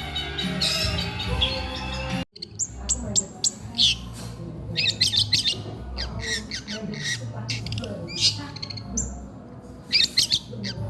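Music for about two seconds, then a sudden cut to a long-tailed shrike (cendet) singing: short, rapid bursts of harsh, high chattering notes, repeated with brief pauses.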